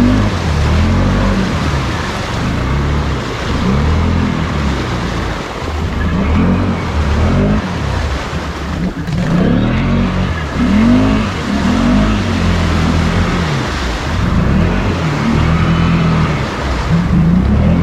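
ATV engine revved hard and let off over and over, its pitch rising and falling every second or so, as the machine works through deep mud.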